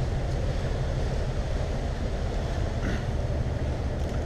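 Wind rushing over the microphone on the open deck of a ferry at sea: a steady rumbling noise with no separate events, the wash of the sea and ship underneath.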